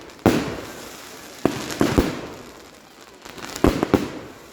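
Fireworks exploding: a run of sharp bangs at irregular spacing, each fading away in a long echo, with three in quick succession about three and a half seconds in.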